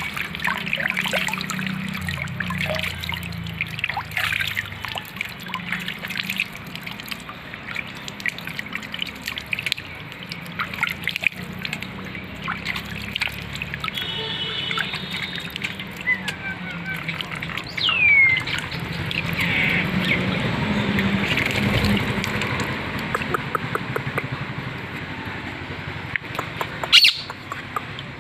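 Water trickling and splashing with many small clicks, and a few short bird calls, among them a falling whistle about two-thirds of the way through. A short, sharp loud sound comes near the end.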